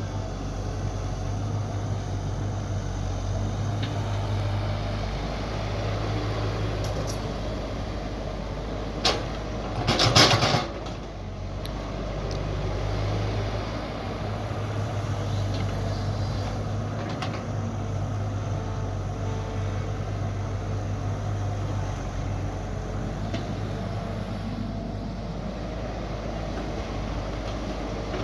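Mini excavator engine running steadily, with a sharp knock about nine seconds in and then a brief, louder clatter of metal work.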